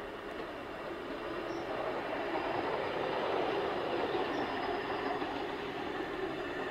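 A KiwiRail train passing along the line. The sound builds to its loudest about halfway through, then eases slightly.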